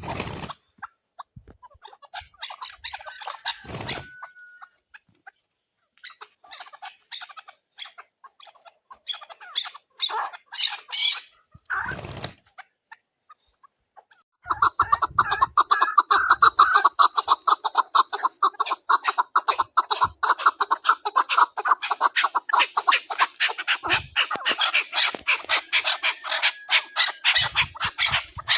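Chukar partridges calling: scattered clucking notes at first, then from about halfway a dense, continuous run of rapid clucks.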